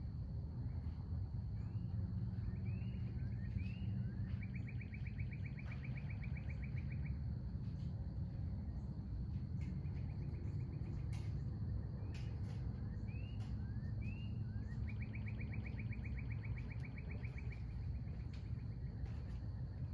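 A songbird singing twice: a few short slurred notes, then a long, fast, even trill, with a shorter trill between the two songs. A steady low outdoor rumble and a thin, constant high tone run underneath.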